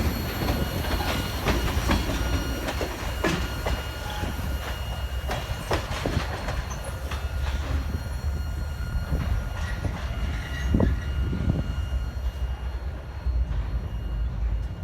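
Empty railroad tank cars rolling past: steady rumble with irregular clicks and clanks of wheels over rail joints, and a thin, steady wheel squeal in the background.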